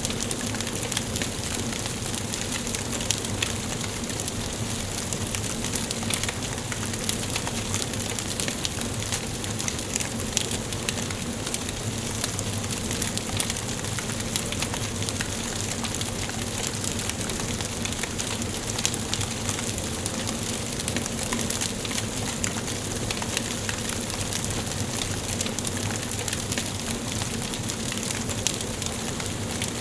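Wood fire burning in a fireplace: a steady hiss with many small, irregular crackles and pops.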